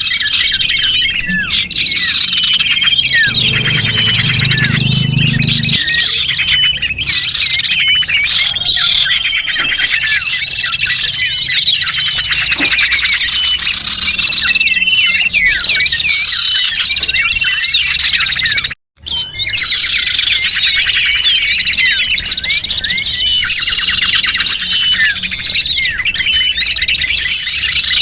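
Lure-call recording of many small songbirds chirping and twittering densely over one another, with a long high trill running underneath. The sound cuts out for a split second about two-thirds of the way through.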